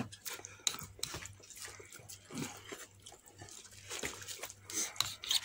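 Close-up eating sounds of fried chicken being chewed: irregular small clicks and wet mouth smacks, over a faint steady low hum.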